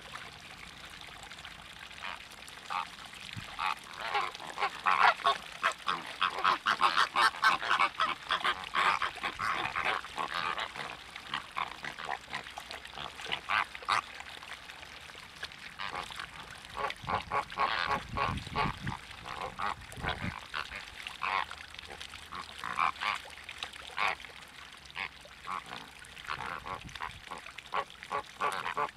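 A flock of waterbirds calling, many short calls overlapping, densest in the first third and thinning out after. A low rumble runs briefly about two-thirds of the way through.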